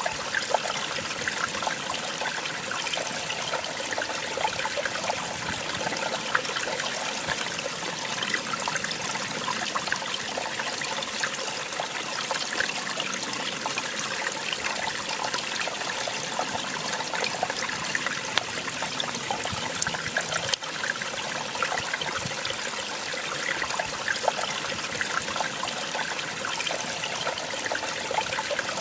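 Small waterfall splashing and trickling steadily over rocks, with many small splashes in the flow. A single sharp click about twenty seconds in.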